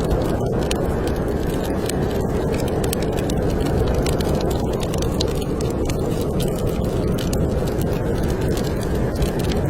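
Snowstorm wind blowing steadily, with a wood fire crackling in a fireplace: many small sharp pops over a low rushing noise.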